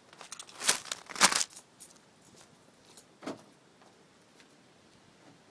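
A cluster of short, sharp clicks and rattles about a second in, then one more click a couple of seconds later.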